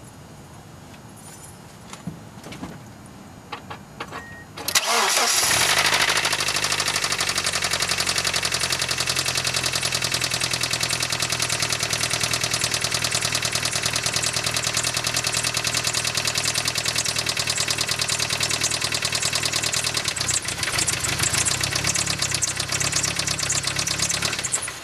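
1999 Mitsubishi Eclipse engine starting after a brief crank about five seconds in, then idling steadily with a rapid, even ticking that the owner takes for lifter tick, before it is switched off and stops suddenly near the end.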